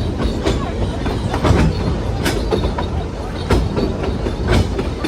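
A narrow-gauge heritage train's carriage running along the track, heard from on board: a steady rumble with irregular wheel clacks and knocks.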